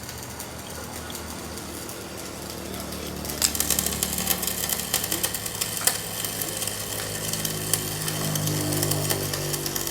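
Machinery running with a steady motor hum that grows louder about three and a half seconds in, joined by rapid rattling clicks.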